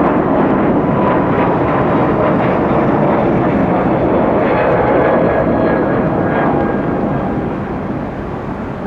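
Airbus A321neo jet airliner's engines at takeoff power as it departs, loud and steady with a faint whine over the noise, beginning to fade near the end.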